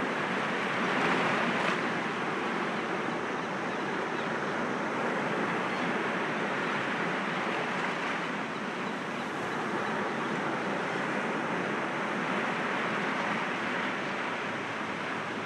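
Sea waves breaking gently against rocks: a continuous wash of surf that swells slightly about a second in and again around eight seconds.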